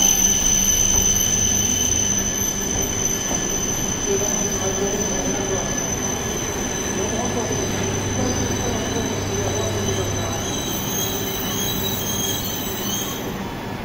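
A Shinkansen bullet train moving along a station platform: a steady rumble with a steady high-pitched whine over it, the whole sound slowly growing quieter.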